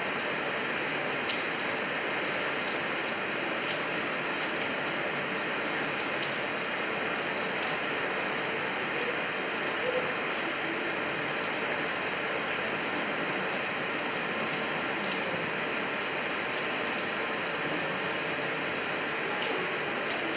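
Steady heavy rain falling, a continuous hiss with scattered small ticks of single drops.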